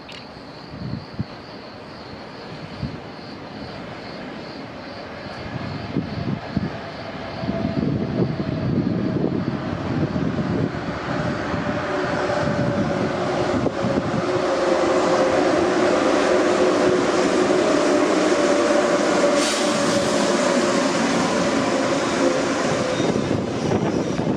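A train running close by, growing steadily louder over the first half and then holding, with a whine whose pitch slowly falls and a clattering rumble underneath. There is a brief hiss about twenty seconds in.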